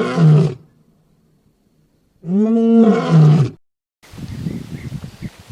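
Lion roaring: two long, loud calls a couple of seconds apart, each rising and then falling in pitch and ending low. About four seconds in the sound cuts abruptly to faint outdoor ambience with light rustling.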